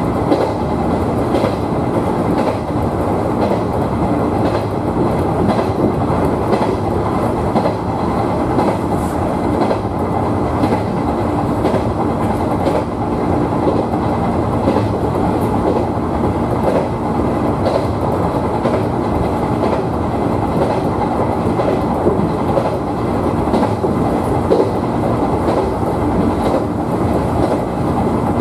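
JR 113-series electric train running between stations, heard from inside the front car: a steady rumble of wheels on rail, with irregular clicks as the wheels pass rail joints and a faint steady hum.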